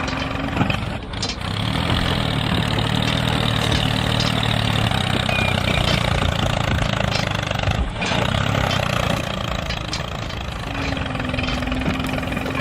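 A tractor engine running steadily at idle, with a few sharp clicks.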